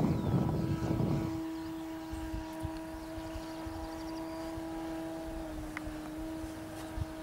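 Electric RC model Cessna's motor and propeller running with a steady whine after a brief rush of noise in the first second; the pitch steps down slightly about five and a half seconds in.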